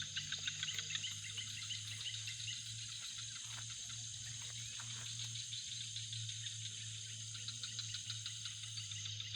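Night insects such as crickets chirring steadily, with rapid repeated chirps in the first half and a constant low hum underneath.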